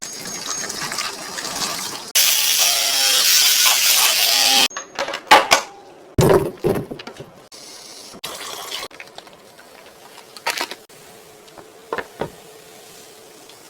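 A steady rushing hiss for about two and a half seconds, then scattered clicks and knocks of objects being handled.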